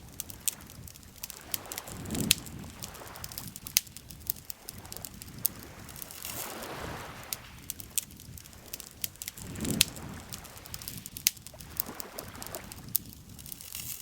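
Wood campfire crackling with frequent sharp pops, over soft swells of lake water lapping that rise and fade every few seconds.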